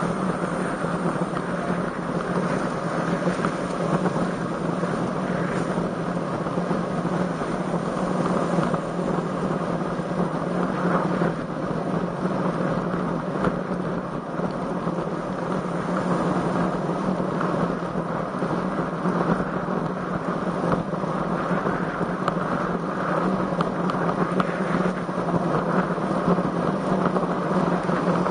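Steady rush of strong wind buffeting the microphone of a camera on a moving road bicycle, with no let-up.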